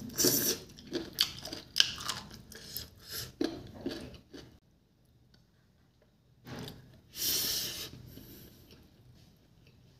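Close-up mouth sounds of chewing and biting on a cooked chicken foot: wet crunching and smacking for about the first four and a half seconds. After a quiet pause, there is one short, loud hiss-like sound about seven seconds in.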